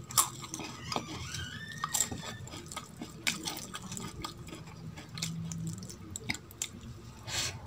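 Wet chewing and mouth smacks, together with the squelch of fingers mixing rice and dal on a metal plate. Scattered short, sharp smacks come through it.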